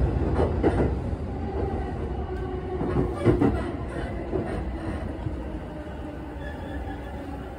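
An electric commuter train heard from inside the carriage as it runs into a station, its running noise fading as it slows. There are a few clacks of the wheels over rail joints and points, about half a second in and again around three seconds in.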